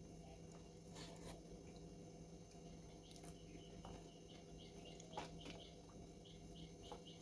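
Near silence: room tone with a steady low hum, a few faint clicks, and faint short ticks repeating a few times a second in the second half.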